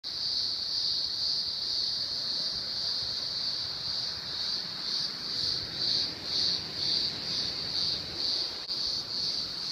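Cicadas buzzing: a steady high-pitched drone that swells and fades about twice a second in the second half.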